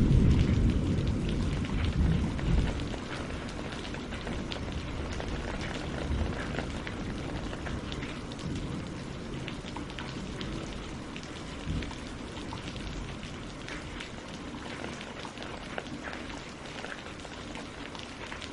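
Steady rain falling on tree leaves and lake water, with many small drop ticks. A low rumble of thunder fades away over the first few seconds.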